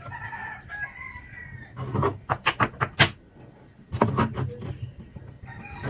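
A rooster crowing, once at the start and again near the end, with two quick runs of sharp knocks in between; the loudest knock comes about three seconds in.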